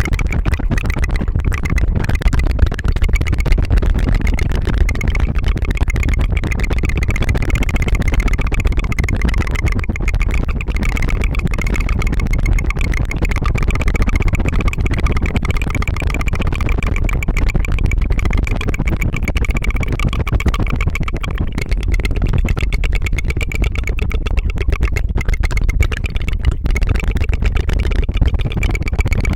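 Tongue fluttering: a fast, steady trill made with the tongue, close to the microphone, buzzing like an idling motor.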